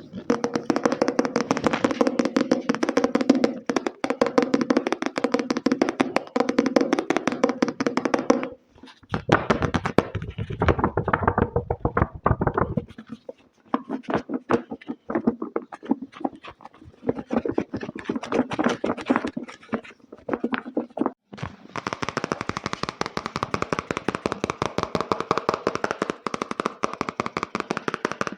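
Fast ASMR tapping on hard objects: long spells of very rapid taps, some with a ringing tone from the struck object, broken by short pauses.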